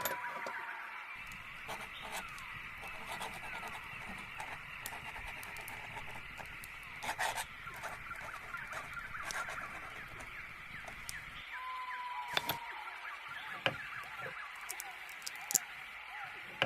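A chorus of small birds chirping and twittering without pause, with a clear whistled note near the start and again about two-thirds through. Scattered light clicks and a couple of short louder noises sit over it.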